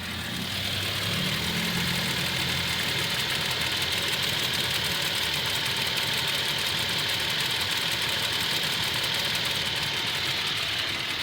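Toyota Tacoma engine idling at operating temperature with a fast, steady ticking, which the owner takes for a bad valve or lifter.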